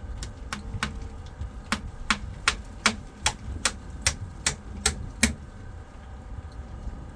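A run of about a dozen sharp, evenly spaced clicks or knocks, about two and a half a second, growing louder and stopping about five seconds in, over a steady low rumble.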